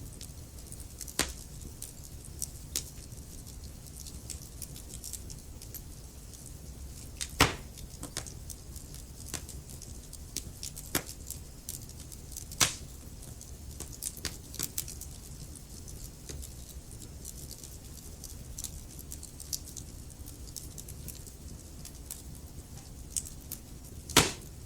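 Wood fire in a fireplace crackling, with scattered sharp pops and three louder snaps, over a low steady rumble.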